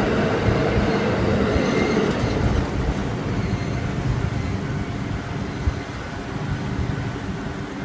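JR Ōme Line electric commuter train passing over a level crossing, its rumble loud for the first couple of seconds, then dying down as it moves away.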